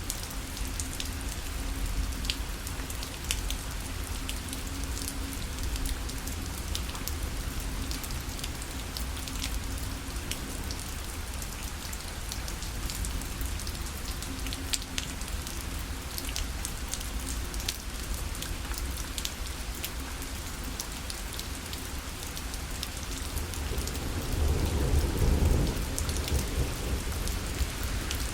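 Steady rain falling on a parasol, many separate drops pattering on the fabric. A low rumble swells near the end.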